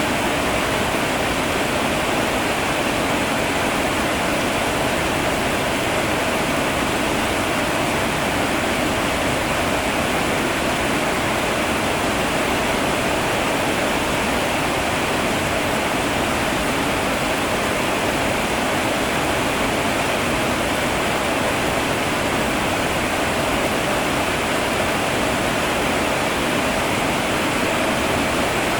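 Heavy rain falling steadily, an even unbroken hiss that neither swells nor fades.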